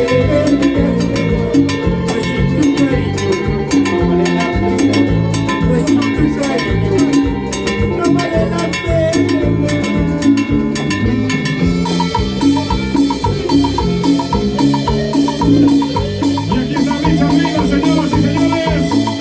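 Salsa band playing an instrumental passage with percussion and a steady beat; about two-thirds of the way through, a quick repeated figure of short high notes comes in.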